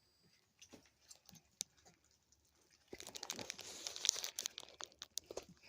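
Raccoons tearing and chewing bread. A few faint scattered clicks, then about three seconds in a dense run of wet crackling and crunching sets in.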